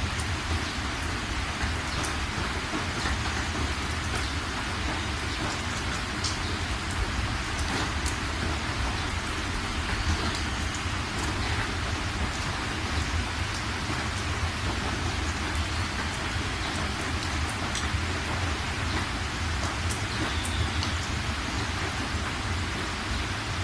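Heavy rain falling on a metal roof: a dense, steady hiss with scattered sharp ticks of drops striking, over a constant low rumble.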